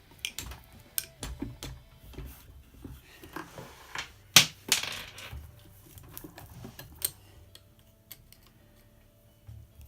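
Irregular metal clicks, taps and knocks from the parts of a vintage cast-iron Singer sewing machine being handled, with one sharp knock about four and a half seconds in.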